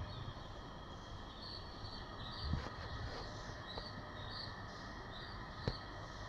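A small bird chirping, short high notes repeated about two or three times a second over a steady outdoor background hum. A single sharp click comes near the end.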